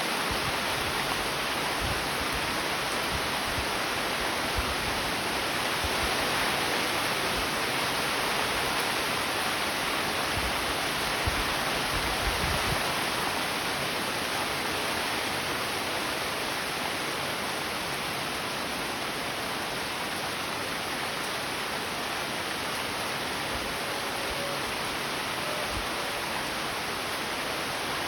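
Steady rain falling, an even hiss, with a few low bumps in the first half.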